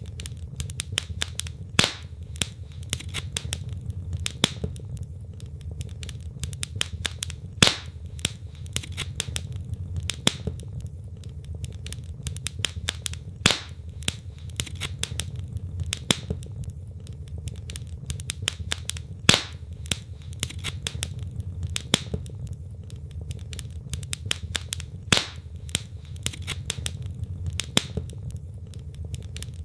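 Wood fire burning in a fireplace, crackling with many irregular sharp pops, a few louder snaps every several seconds, over a steady low rumble.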